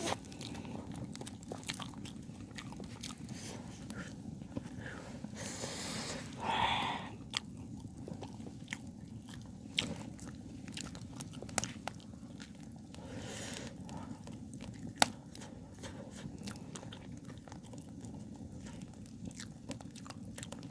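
Close-up eating sounds: a person chewing soft, moist pumpkin cake, with many small wet mouth clicks and smacks over a steady low background hum.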